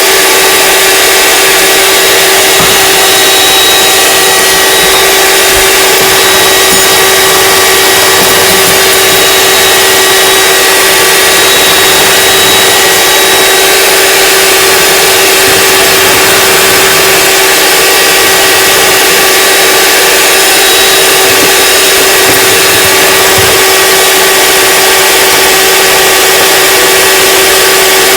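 Electric mixer running steadily at one speed, a constant motor whine over loud whirring, beating macaron mixture that is not yet thickening.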